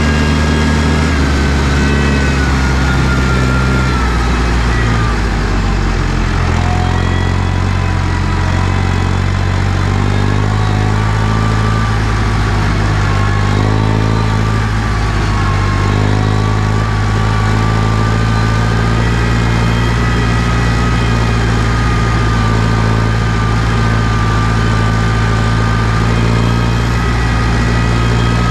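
New Holland T6040 tractor's diesel engine running steadily, its note shifting a few seconds in. A thin high whine rides above it, sliding down at first and then slowly rising.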